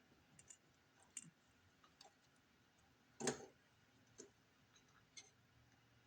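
Faint, scattered clicks and light taps of small metal parts being handled and lined up as a carburetor adapter is fitted, with one louder clack about three seconds in.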